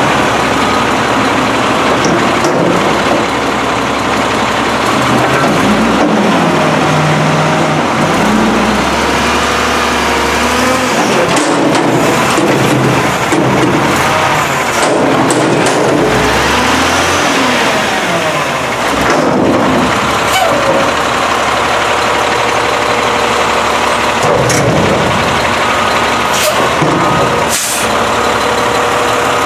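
Garbage truck's diesel engine revving up and falling back several times, with a few short sharp noises in between.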